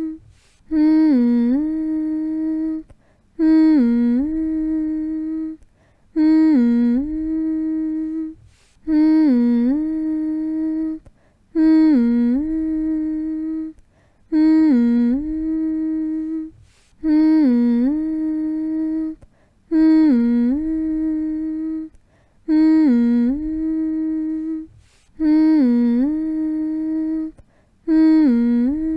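A person humming the same short phrase over and over, about every two and a half seconds: a quick dip in pitch, then one long held note, with a brief pause for breath between.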